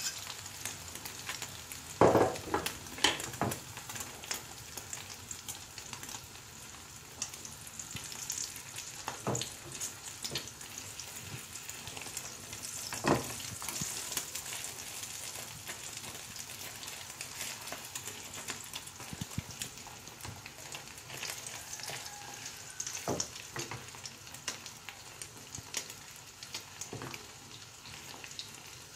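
Beaten eggs and sausage pieces sizzling in a frying pan, with a wooden spatula stirring and scraping through them. A few sharp knocks against the pan stand out, the loudest about two seconds in.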